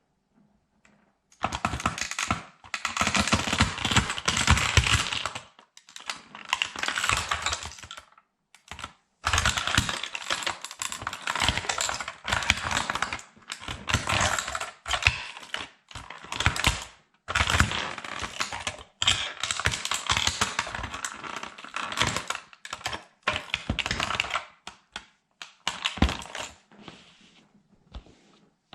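Toy military truck being crushed underfoot by a sandal: rapid crackling and crunching clicks in long bursts, with short pauses between them.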